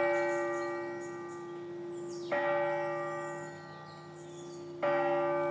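A church bell tolling slowly: three strikes about two and a half seconds apart, each left to ring on and fade with a long hum.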